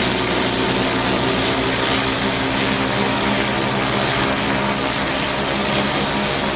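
Pressure washer engine running steadily under load, with the hiss of high-pressure water spraying from a surface cleaner on a paver driveway.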